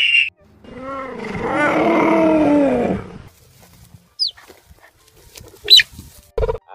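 A large animal's long, loud call of about two and a half seconds, its pitch rising and then falling. Two short high chirps and a brief low thump follow.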